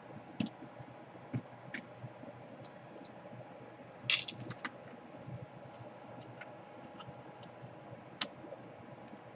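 Scattered small clicks and taps from handling tools and laptop parts during a power-jack repair, with a quick run of clicks about four seconds in.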